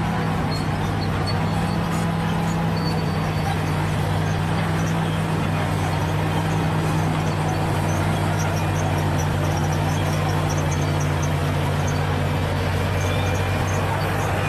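Bulldozer's diesel engine running steadily under load, a low, even drone.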